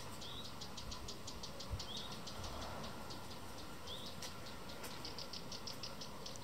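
Small birds chirping faintly: a quick run of short high chirps, with a short rising call about every two seconds.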